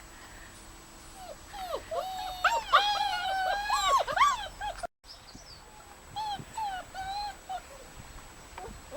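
Five-week-old Old German Shepherd puppies whining and whimpering, many high whines overlapping for about three seconds, then a short silent gap and a few fainter whines.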